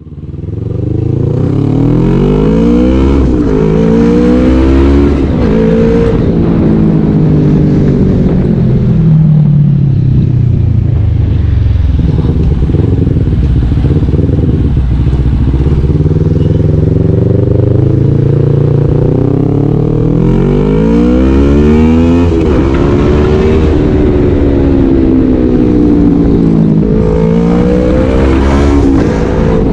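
CFMoto NK400 parallel-twin motorcycle engine running through an Akrapovic aftermarket muffler, its note climbing and dropping again and again as the revs rise and fall.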